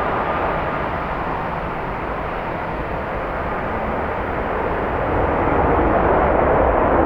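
Jet airliner engine noise that swells louder over the last couple of seconds, with strong wind buffeting the microphone.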